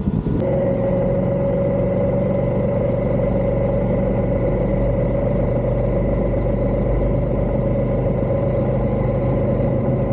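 Motorcycle engine running steadily, holding one even pitch. It starts abruptly about half a second in.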